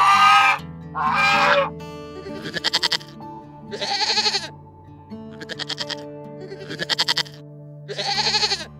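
Young goats bleating: five short, quavering bleats spaced a second or so apart from about two seconds in, over background music with sustained low notes. Two louder, longer animal calls open it.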